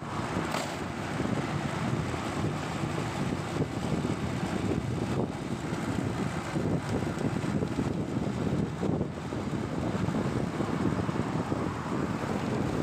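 Wind buffeting the microphone of a moving bike, over the steady noise of riding through traffic.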